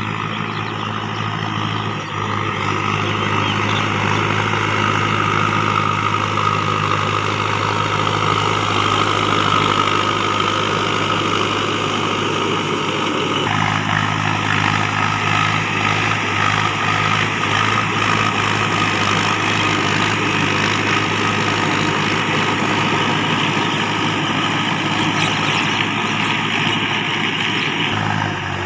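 Diesel engine of a Mahindra tractor running steadily as it plows a paddy field.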